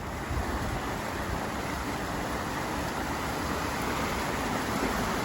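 Steady rushing of a creek running high after heavy rain, starting abruptly.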